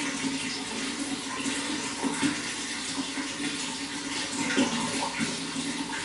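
Running water flowing and splashing steadily, with a couple of brief louder splashes.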